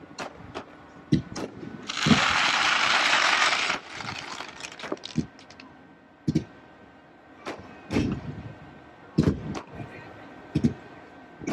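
Fireworks going off: a series of sharp bangs, about ten spread irregularly through the stretch, with a loud hiss lasting nearly two seconds about two seconds in.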